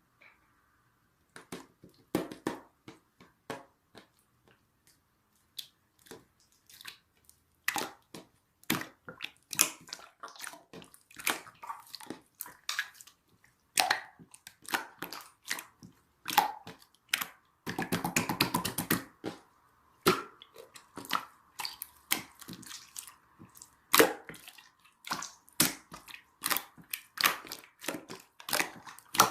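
Wet, sticky clicks and pops from a soft jelly-like material being squished and pressed, irregular and close, with a dense stretch of rapid crackling about eighteen seconds in.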